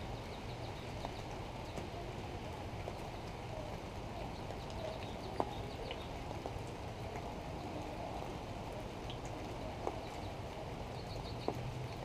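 Steady low background rumble with faint, short high bird chirps now and then, clustered near the start and again about a second before the end, and a few single soft clicks.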